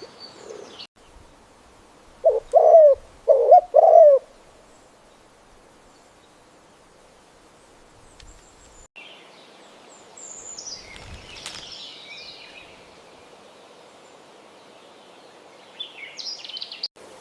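Birdsong: three loud, low cooing calls from a pigeon-type bird about two seconds in, with high songbird chirps and twitters at the start, in the middle and near the end.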